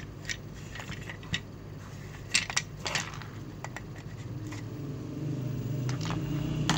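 Plastic and small metal parts of an electric air blower clicking and rattling as it is handled and opened up, with a string of sharp clicks and knocks.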